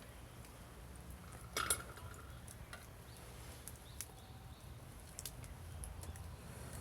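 Wood fire crackling faintly, with sparse ticks and pops, the sharpest a ringing crack about a second and a half in, over a low steady rumble.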